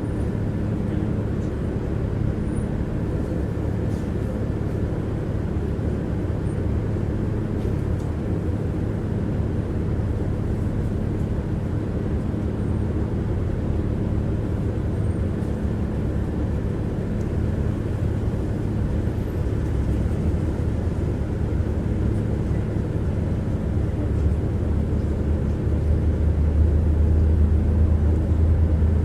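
Tram running, heard from inside the passenger car: a steady rumble of wheels on the rails with the hum of its electric traction motors, the low hum growing louder near the end.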